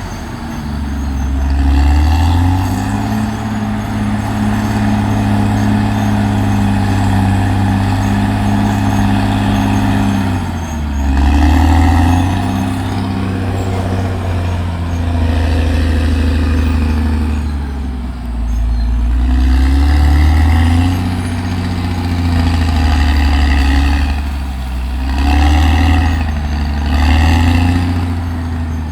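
Caterpillar D6R XL bulldozer's diesel engine working under varying load, its pitch rising and falling several times as it revs up and settles back.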